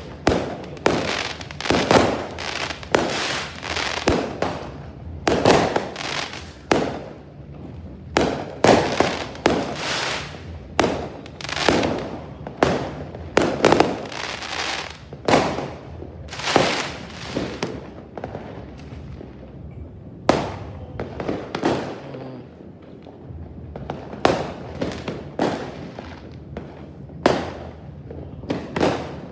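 Fireworks going off in a dense, irregular run of sharp bangs, about one or two a second, each trailing off in a short echo. The bangs thin out for a few seconds past the middle, then pick up again.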